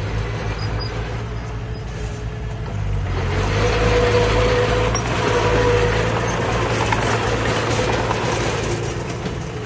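Heavy diesel earthmoving machine running, its engine steady at first, then working harder and louder with a rushing noise from about three seconds in, easing again near the end.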